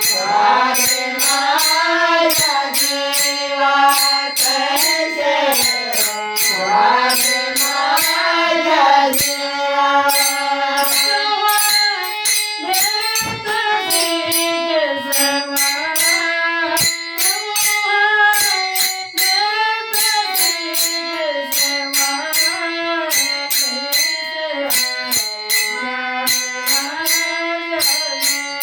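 A woman singing a Marathi song in a gliding, ornamented melody, over a steady, bright percussion beat of several strikes a second.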